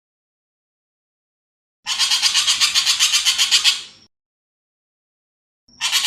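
Ekek keling bird giving a harsh, rough rattling call of rapid pulses, about nine a second, lasting about two seconds. It starts about two seconds in, and a second rattle begins near the end.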